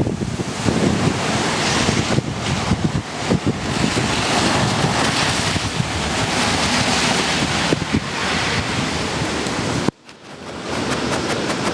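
Tropical-storm-force wind from Hurricane Sandy gusting hard and buffeting the microphone in a constant rushing noise. About ten seconds in it cuts out abruptly for an instant, then returns with a few sharp ticks.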